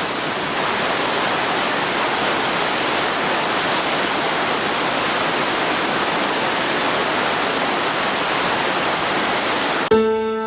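Steady, unbroken rush of a waterfall of a mountain creek, heard close by. Piano music comes in just before the end.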